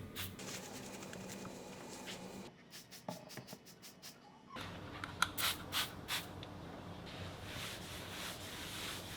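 Light clicks, taps and scraping from hands working with utensils and dishes in a kitchen. A run of fine ticks about three seconds in, and a cluster of sharper clicks about five to six seconds in.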